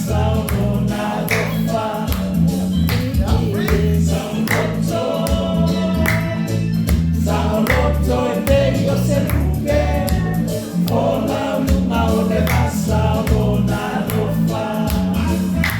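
A group singing a gospel chorus with musical accompaniment.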